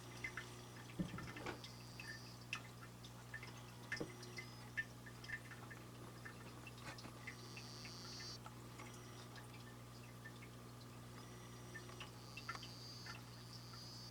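Dwarf frogs singing: faint scattered clicks and several high buzzing trills of about a second each, over a steady low hum.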